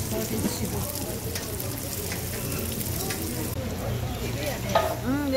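Egg-battered jeon and mung bean pancakes sizzling in oil on a flat steel griddle: a steady hiss with small crackling pops. The hiss turns duller about three and a half seconds in.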